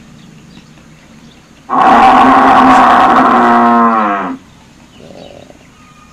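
Highland cattle mooing: one long, loud call of about two and a half seconds that drops in pitch as it ends.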